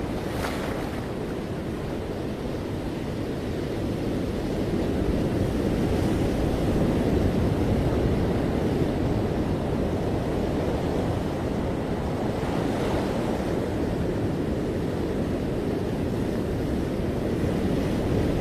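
Ocean surf washing onto a beach in a continuous low rush, swelling a little about a third of the way in, with wind buffeting the microphone.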